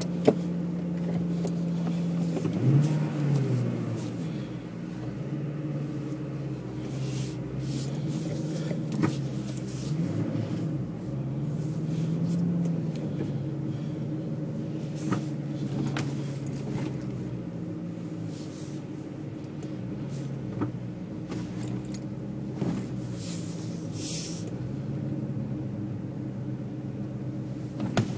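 Car engine heard from inside the cabin while the car drives slowly, its hum rising and falling in pitch with the throttle. A few sharp clicks and knocks come through at scattered moments.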